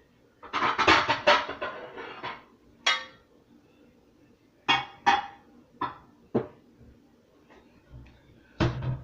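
Kitchen dishes and pans being handled: a clattering rattle about half a second in, then several separate sharp knocks, some with a short metallic ring.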